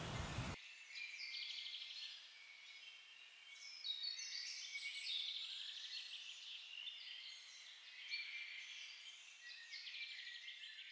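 Faint songbirds chirping and trilling, several calls overlapping with quick rising and falling notes. About half a second in, a steady background hiss cuts off abruptly and the birds carry on alone.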